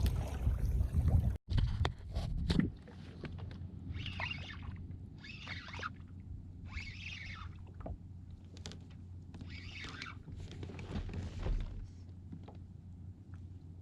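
Wind buffeting the microphone at first. After a brief cut, quieter short splashy hisses of water come a second or more apart around a kayak, with a few light knocks.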